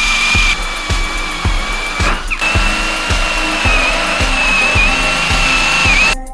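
Electric drill turning a flat spade bit through wood, its motor whining steadily under load, with a brief wobble in pitch about two seconds in. Background music with a steady beat plays over it.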